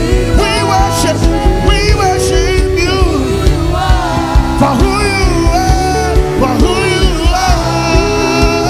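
Live gospel praise-and-worship band music: drums and bass keeping a steady beat under a winding melody line.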